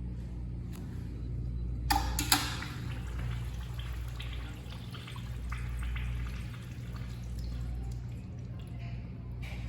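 Faint water trickling and dripping in a toilet over a steady low hum, with two sharp clicks about two seconds in.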